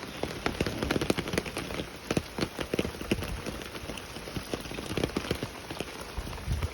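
Rain falling steadily, with many close drops striking as irregular sharp taps over a continuous hiss.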